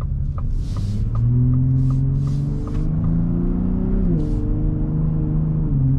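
Ford F-150 Raptor's twin-turbo 3.5-litre EcoBoost V6 with its active exhaust in Sport mode, heard from inside the cabin while accelerating. The engine note rises steadily, drops suddenly about four seconds in at a gear change, and steps again near the end.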